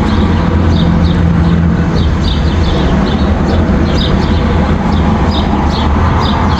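Many songbirds chirping with short, quick notes, several a second, over a steady low rumble that is the loudest sound.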